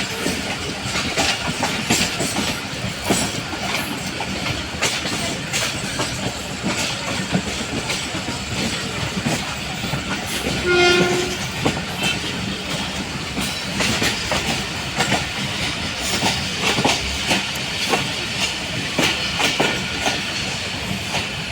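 Pakistan Railways passenger train running along the track, its wheels clicking over the rail joints, with one short horn blast about halfway through.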